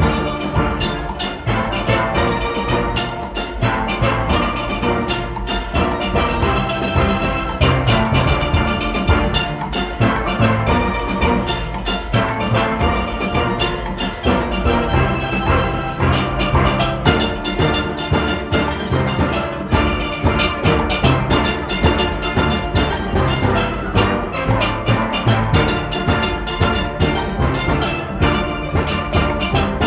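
A steel orchestra playing live: many steelpans struck in a fast, steady rhythm over bass pans, with drums and percussion keeping the beat.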